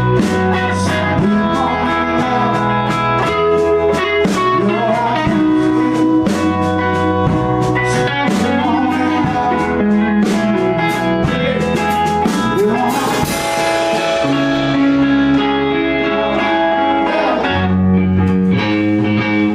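A rock band playing an instrumental passage: electric guitar over a bass line that steps between notes, with drum kit, and a cymbal crash about two-thirds of the way in.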